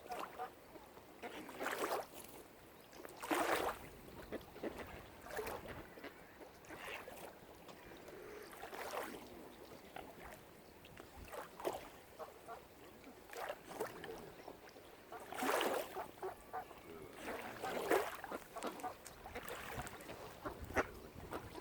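Waterfowl calling on open water: about a dozen short honking calls at irregular intervals.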